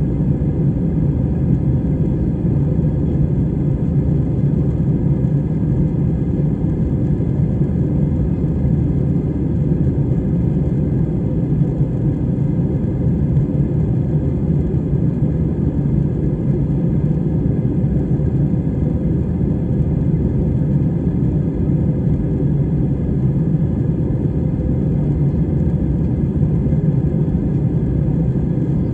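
Steady low rumble of a passenger airliner's engines and airflow heard from inside the cabin, unchanging throughout.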